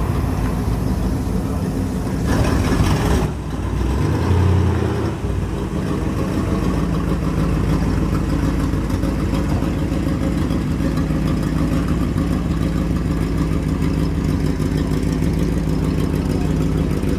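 Car engine idling steadily with an even pulsing beat, revved briefly a few seconds in before settling back to idle.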